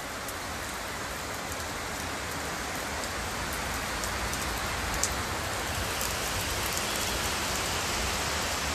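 Steady rain falling, with sharp ticks of single drops landing close by and one louder tick about five seconds in; it grows slowly louder.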